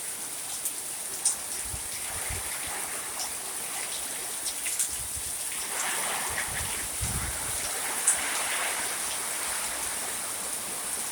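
Steady rain falling in a storm, a continuous hiss with scattered sharp drip ticks and a few short low thumps.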